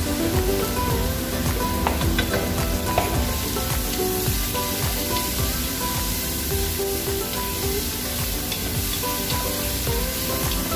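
Sliced red onions and ginger sizzling as they sauté in a pot, stirred with a wooden spatula, which scrapes and clicks against the pot.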